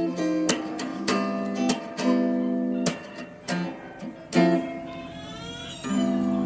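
Background music: acoustic guitar strumming chords, struck roughly every half second, with a sliding sweep of high notes near the end.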